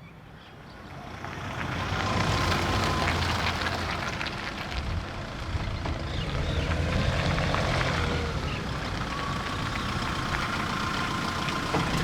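Nissan Navara D22's YD25 turbodiesel engine running as the ute drives, growing louder over the first two seconds and then holding steady.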